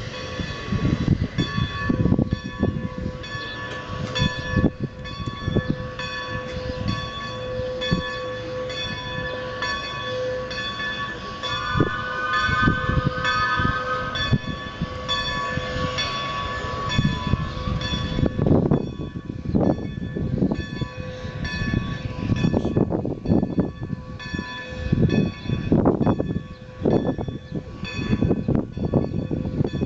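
Strasburg Rail Road No. 90, a 2-10-0 decapod steam locomotive, ringing its bell steadily at about two strokes a second, with heavy low exhaust chuffs coming in strongly in the second half.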